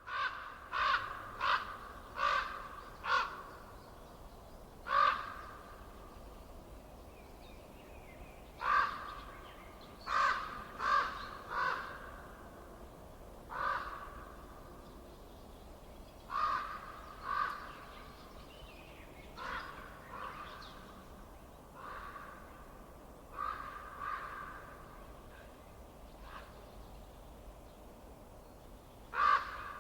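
A bird giving short, harsh calls, repeated in runs of one to five calls about 0.7 s apart, over a faint steady hiss.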